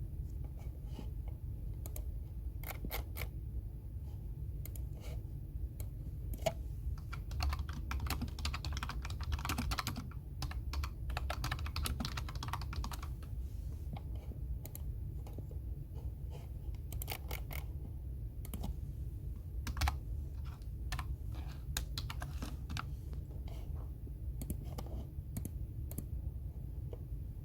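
Typing on a computer keyboard: keystrokes clicking in irregular bursts, with one fast, dense run partway through and sparser taps elsewhere. A steady low hum runs underneath.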